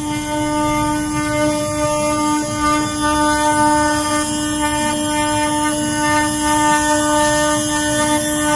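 CNC router spindle running at a steady speed while carving a door, with a constant high whine and the rough hiss and rumble of the bit cutting.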